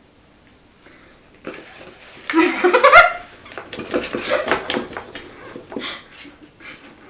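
A cat's loud rising yowl about two seconds in, cut off by a sharp click, followed by a few seconds of knocks and scuffling.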